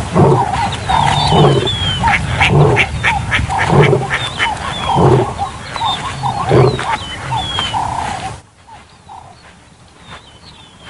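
Lions and spotted hyenas calling over each other in a fight, repeated growls and cries, with birds chirping behind. The noise cuts off suddenly about eight seconds in, leaving only faint bird chirps.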